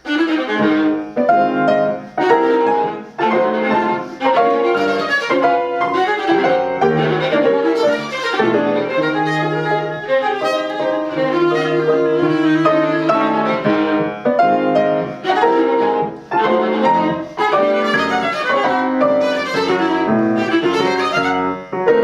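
A viola and piano playing a classical piece together, the viola bowing a busy line of short, separate strokes over the piano accompaniment.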